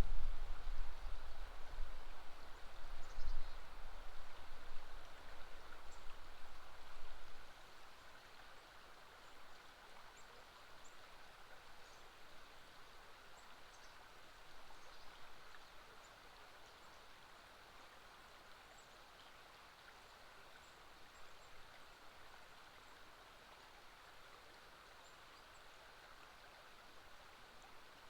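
River water flowing steadily, with faint, scattered high bird chirps over it. A low, uneven rumble sits under the flow for the first seven seconds or so, then stops.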